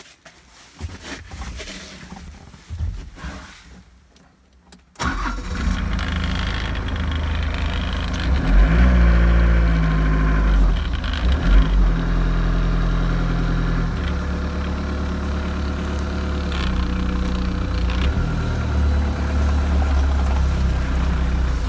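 Diesel engine of a 1986 Mitsubishi FD25 forklift starting abruptly about five seconds in, after some faint clicks and rustling, then running steadily. It revs up and down briefly a few seconds after starting, then settles back to a steady run.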